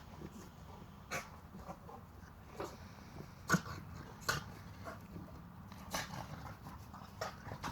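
Pit bull-type dogs tussling: a low growl running under short sharp yips, the loudest about three and a half seconds in.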